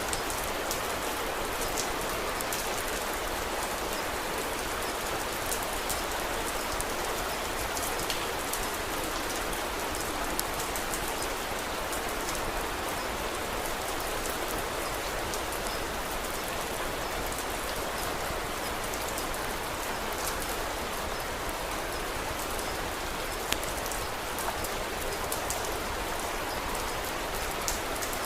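Steady rain falling, with scattered sharp pops of a wood fire crackling.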